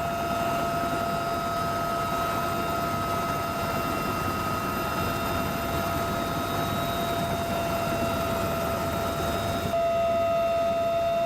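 Military turbine aircraft engines running: a steady high whine over a rushing engine noise. The sound changes abruptly about ten seconds in, with the whine growing stronger.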